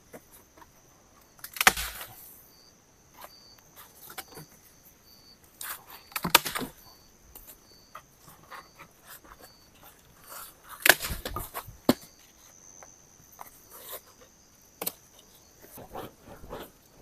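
Irregular knocks, snaps and rustling of firewood being handled while a dying campfire is stoked, loudest in three bursts about 2, 6 and 11 seconds in. Night insects keep up a steady high buzz, with a short high chirp repeating about twice a second for a while.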